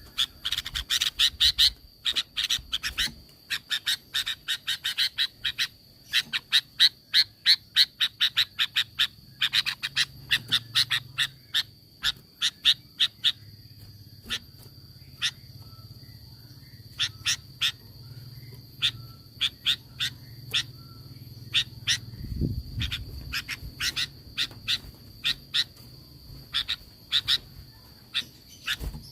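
Sooty-headed bulbul (kutilang) calling in rapid-fire bursts of sharp, quickly repeated notes, dense for the first ten seconds and then sparser. A steady high-pitched tone and a low hum run underneath, with one low thump about 22 seconds in.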